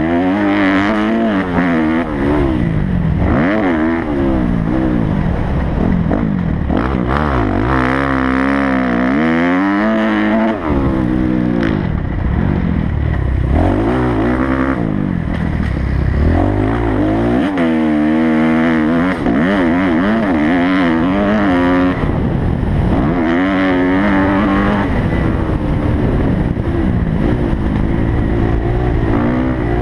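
Kawasaki motocross bike engine revving hard and falling off again and again as the rider works the throttle and gears around the track, its pitch climbing and dropping every few seconds.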